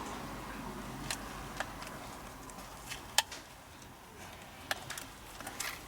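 A few small, sharp clicks and taps, scattered and irregular: a metal pick working at a plastic wire clip on a steering column, trying to pop it loose.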